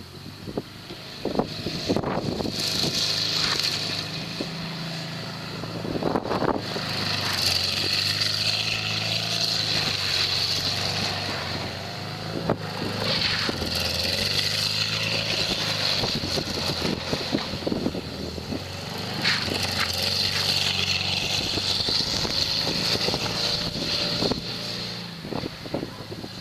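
1960 Volkswagen Beetle's air-cooled flat-four engine revving hard in about four long pushes of several seconds each, easing off between them, as the car drifts on snow.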